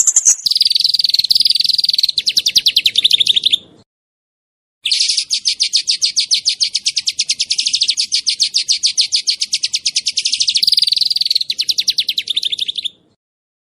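Small songbird singing a very fast, sharp 'shooting' trill of rapidly repeated notes, the kind of song used as masteran for tutoring cage birds. The trill comes in two bursts, a short one and then, after a brief pause, a longer one of about eight seconds, each dropping a little lower in pitch partway through.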